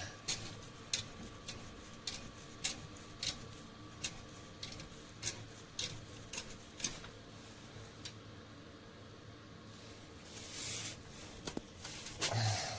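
Scattered sharp metallic clicks and taps of hand tools working on the car's underside while the subframe is being undone and lowered, roughly one every half second at irregular spacing. A faint steady tone runs under the first few seconds and stops about four and a half seconds in, and there is a brief hiss near the end.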